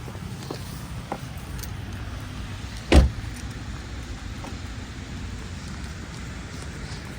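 Car running with steady low road and engine rumble, a few faint clicks, and one loud thump about three seconds in.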